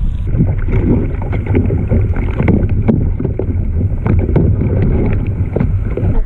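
Wind buffeting the microphone as a heavy low rumble, with irregular splashing and sloshing of sea water.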